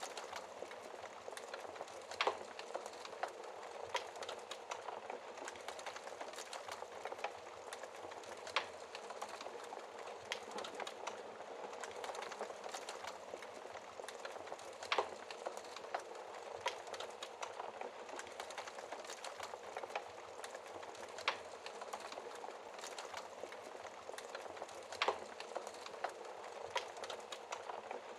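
Burning logs crackling in a fireplace, with sharp pops every few seconds over a steady hiss of rain.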